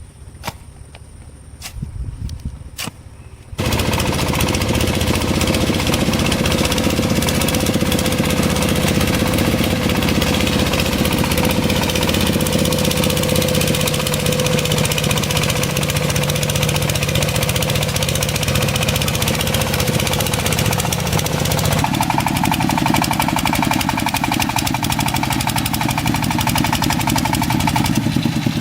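A few sharp knocks, then a motor-driven machine comes in abruptly about three and a half seconds in and runs steadily and loudly. Its note shifts about two-thirds of the way through.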